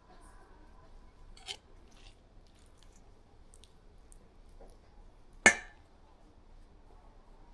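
Soft, quiet handling sounds of hands pressing and folding dumpling wrappers around filling. A small tick comes about a second and a half in, and a single sharp knock, the loudest sound, comes about five and a half seconds in.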